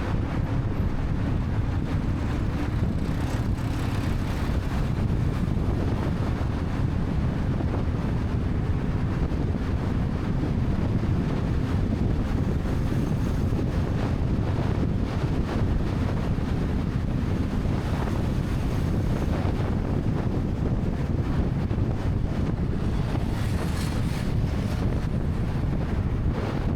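Wind rushing over the microphone of a moving motorcycle, with the motorcycle's engine and road noise running steadily underneath.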